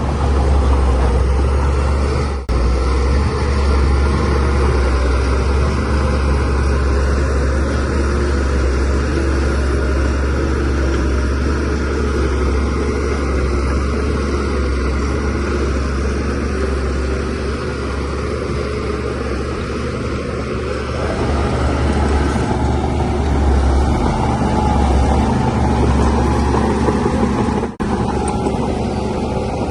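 DH17C3 bulldozer's diesel engine running steadily, its sound heaviest in the low end, with the audio cutting out for an instant twice.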